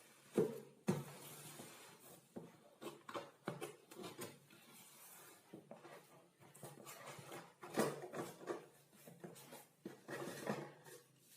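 Irregular knocks, clicks and light clatter of hard objects being handled, with the sharpest knocks about half a second in and again near 8 seconds.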